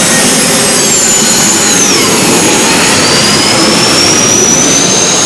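MTT Y2K superbike's Rolls-Royce Allison 250 gas turbine running loud, with a high whine that drops in pitch between about one and two seconds in, then rises steadily from about three seconds in.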